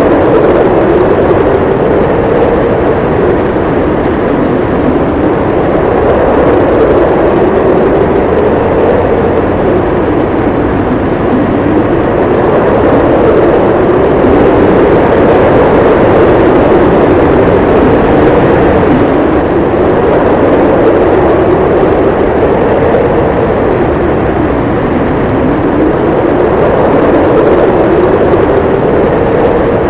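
Howling wind in a winter snowstorm: a steady rush of wind with a pitched howl that slowly rises and falls every few seconds.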